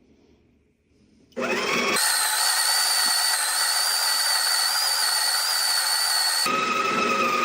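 Breville Barista Touch's built-in conical burr grinder starting about a second and a half in and grinding coffee beans with a steady high whine. Near the end the whine drops lower and thins out as the grind winds down.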